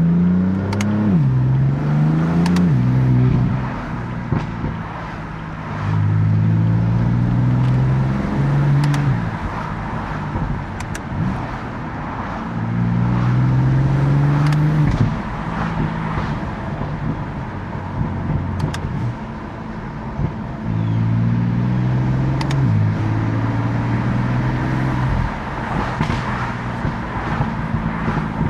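BMW F80 M3's twin-turbo S55 straight-six accelerating in several pulls, its pitch climbing and dropping back at each upshift, with the engine easing off between pulls.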